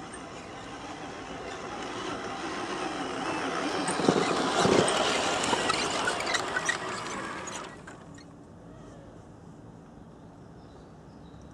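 Radio-controlled model truck running, its motor and gear noise growing louder with scattered clicks, then cutting off suddenly after about eight seconds.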